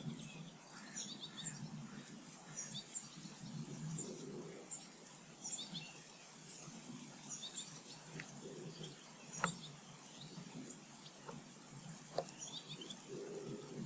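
Small garden birds chirping at feeders: many short, high chirps and twitters scattered throughout, with a few sharp clicks or taps in between.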